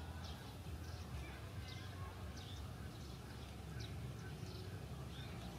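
Small birds chirping: short high chirps repeating about twice a second over a steady low rumble.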